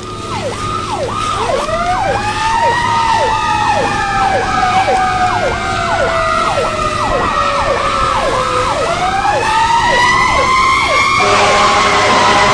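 Two emergency vehicle sirens sounding together: one in a fast falling sweep about twice a second, the other in a slow wail that rises, sinks and climbs again. A steady horn blast joins near the end.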